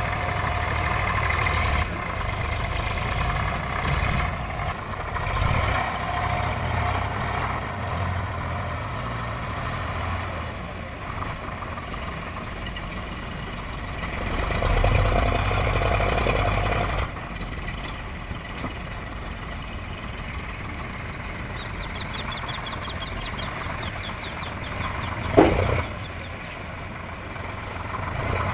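Engine of a heavy vehicle such as a tractor or backhoe running steadily. It swells louder for a few seconds past the middle, then drops off abruptly. A single brief sharp sound comes near the end.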